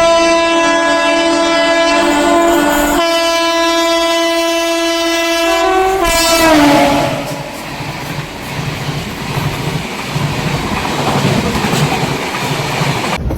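Kangra Valley Railway train sounding its horn in two long blasts, the second ending in a drop of pitch, then the rolling rumble and clickety-clack of the wagons on the rails.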